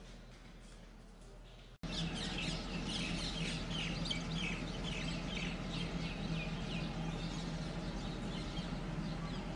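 Birds chirping outdoors: many short, falling calls, several a second, over a steady low hum. They start abruptly about two seconds in, after a brief near-quiet stretch.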